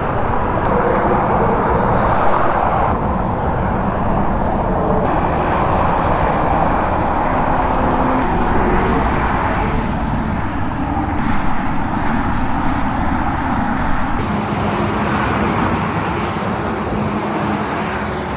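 Riding a motorcycle: steady wind rush over a helmet-mounted microphone, with the engine running underneath at a fairly even speed.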